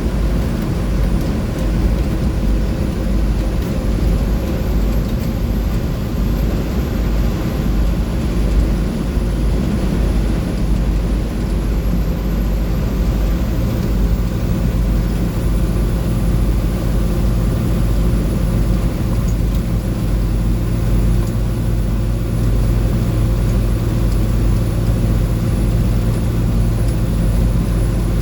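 International DT466E inline-six turbodiesel of a 2004 Blue Bird 3800 bus running at highway speed, heard from inside the bus over steady road and drivetrain rumble. The engine note firms up about halfway through.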